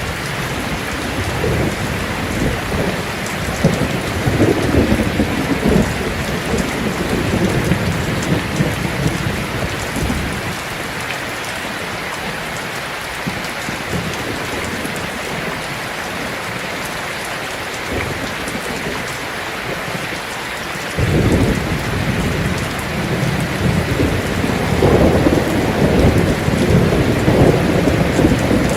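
Heavy rain drumming steadily on a tin roof, with rolling thunder. One roll rumbles through the first third, and a second breaks in suddenly about two-thirds of the way in and keeps rolling.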